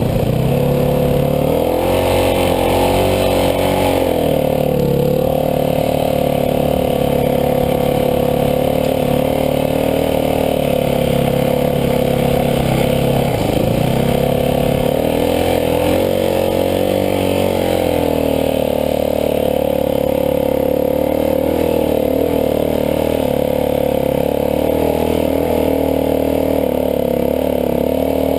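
Dirt bike engine running steadily at riding speed while towing another dirt bike. Its pitch dips briefly a few times as the throttle eases, then settles back.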